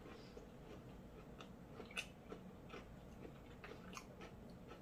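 Faint chewing of a breaded chicken nugget: soft crunches and wet mouth clicks, with two sharper clicks about two and four seconds in.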